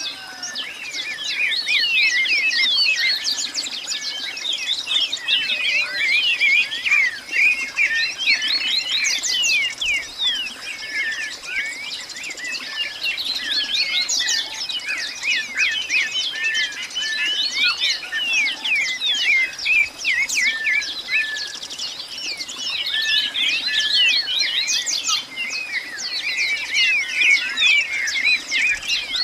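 Dense chorus of many small birds chirping and twittering all at once, thicker in some stretches than others.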